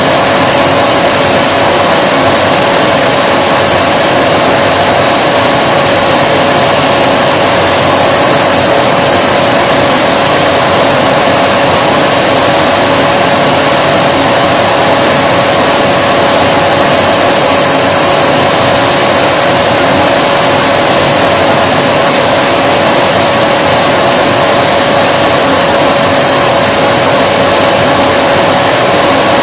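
Vacuum cleaner running steadily: an even rushing of air with a constant motor whine in the middle range, never changing.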